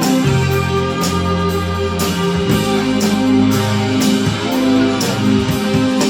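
Rock band playing an instrumental passage: electric guitar over sustained bass notes, with drums and cymbals keeping a steady beat.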